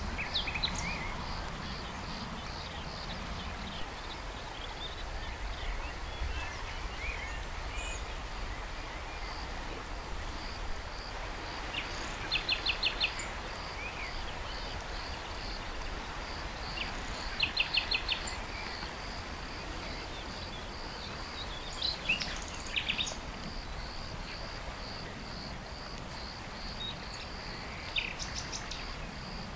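Birds calling outdoors in short bursts of quick repeated notes, four times, over a continuous pulsing high-pitched chirping and a steady background noise.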